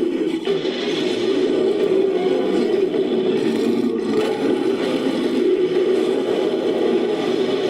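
Designed monster-creature vocal sound effect, layered from ape and big-cat roars: one long, unbroken, rough growl that holds steady without a break.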